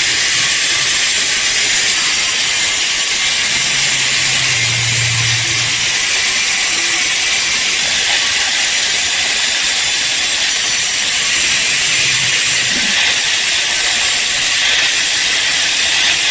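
Steady, loud hiss of a compressed-air tool running continuously, the kind of sound that sandblasting or spray painting makes.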